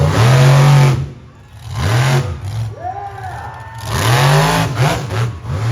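Monster truck engine revving hard in repeated bursts. There are two big revs, near the start and about four seconds in, with shorter throttle blips between and after them.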